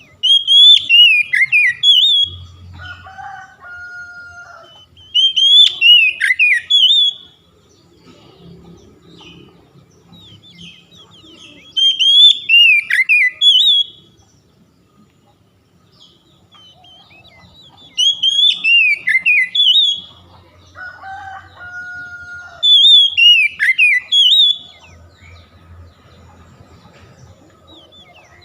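Oriental magpie-robin (kacer) song, used as a stimulus recording to set a caged kacer singing. Loud phrases of quick whistled notes sweep downward, each about two seconds long. The same phrase repeats five times with pauses between, like a looped recording, and fainter two-note whistles come twice in the gaps.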